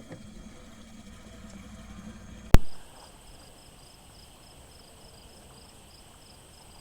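A low engine hum for the first couple of seconds, cut off by a single sharp click about two and a half seconds in. After it, insects chirp in an even, pulsing trill over a steady high whine.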